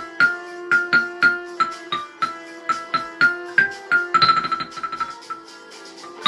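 Instrumental ensemble music led by a keyboard: a melody of struck, ringing notes about two a second over held lower notes, breaking into a fast tremolo on one chord about four seconds in.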